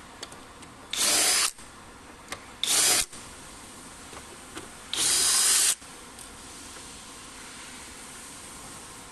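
A power drill running in three short bursts, each under a second long, with a brief pause between them.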